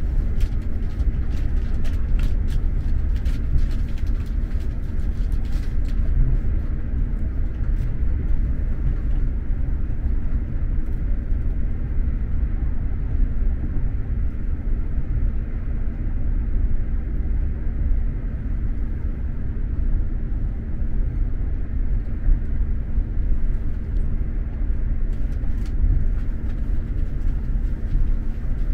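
X2000 high-speed train running along the track, a steady low rumble of wheels and running gear heard from inside the carriage, with scattered light clicks in the first few seconds and again near the end.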